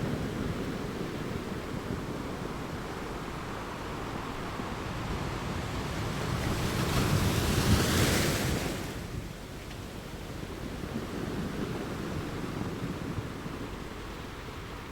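Sea waves breaking on the shore: a steady wash of surf, with one larger wave building from about six seconds in, crashing near eight seconds and falling away quickly.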